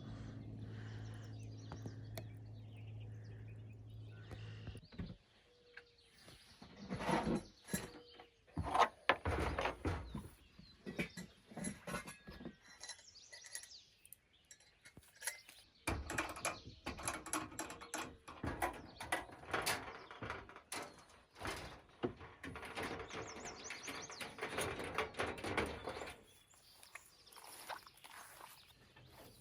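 Birds chirping and singing, with scattered knocks and clatter of things being handled. A low steady hum runs for the first five seconds, then stops.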